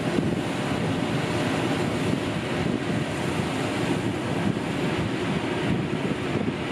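John Deere 660i Hillmaster combine harvester running steadily while cutting wheat, a continuous low machine rumble, with wind buffeting the microphone.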